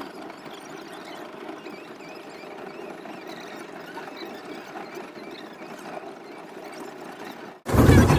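Railcar wheels squealing faintly and wavering over a steady running noise on the White Pass & Yukon Route narrow-gauge train.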